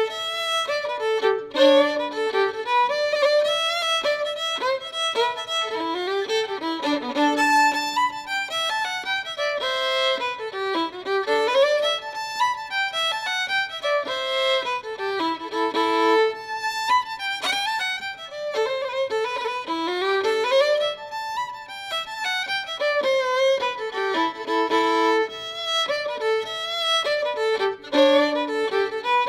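Music: a fiddle playing quick running melodic phrases that climb and fall.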